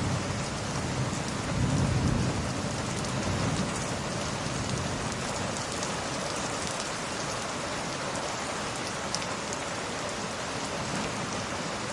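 Steady heavy rain falling, with a soft low roll of distant thunder about two seconds in.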